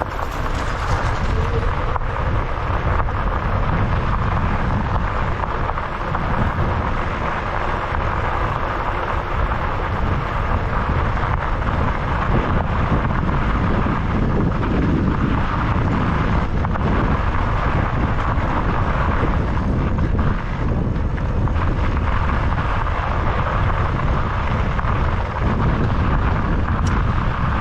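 Steady rush of wind buffeting the microphone with a constant low rumble, from riding an e-bike.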